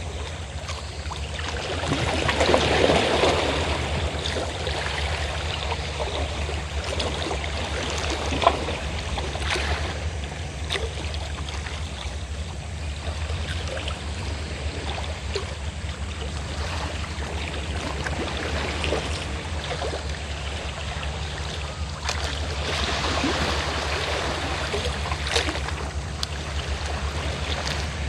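Sea waves washing and breaking on the shore, swelling loudest about two seconds in and again near the end, with small splashes between. Under them runs the steady low drone of a fishing boat's engine.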